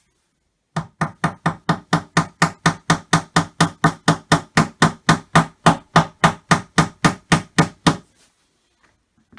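Rapid, even hammering on the flat-pack cupboard's wooden panel, driving pieces in: about thirty strikes at roughly four a second, starting about a second in and stopping near eight seconds.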